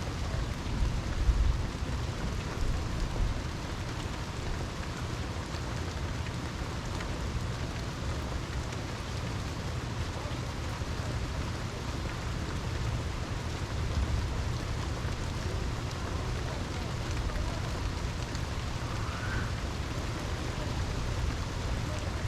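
Steady rain falling, with low thunder rumbling about a second in and again near the middle.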